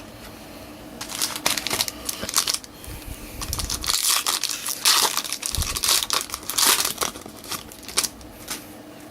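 A foil trading-card pack wrapper being torn open and crinkled, a dense crackling that starts about a second in and is loudest in the middle.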